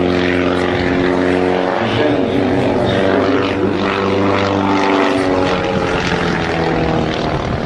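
Propeller airplane engine droning steadily, with several pitched tones whose pitch shifts slightly a couple of times.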